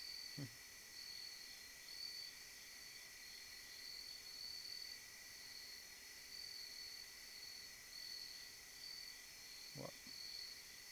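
Night insects, crickets among them, calling steadily in a faint chorus: a high pulsing trill over a steady lower drone.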